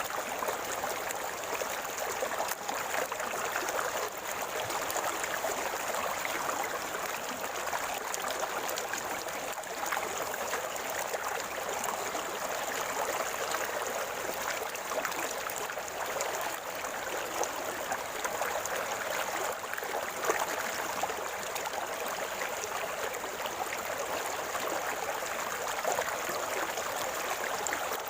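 River water flowing and gurgling in a steady, even rush.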